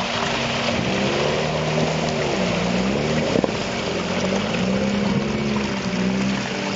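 A car engine working hard under load as the car pulls through deep mud, its pitch dipping and rising again with the throttle. A brief knock about three and a half seconds in.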